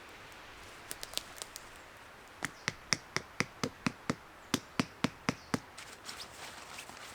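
A few scattered clicks, then a quick run of about a dozen sharp knocks, roughly four a second, followed by soft rustling.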